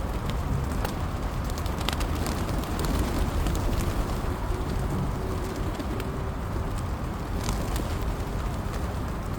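Pigeons cooing, with scattered sharp clicks, over a steady low rumble.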